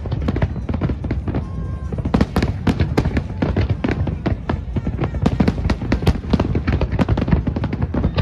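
Large fireworks display: a dense, continuous barrage of sharp bangs and crackles, several a second, over a deep rolling rumble of booms.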